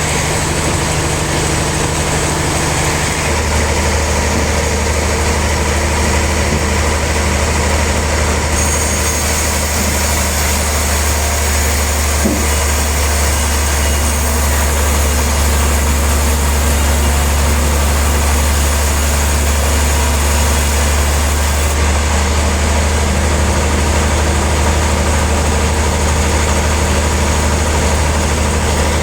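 Sawmill machinery sawing a large log, running steadily with a strong low hum. A higher hiss joins about eight seconds in and drops away again a little past twenty seconds.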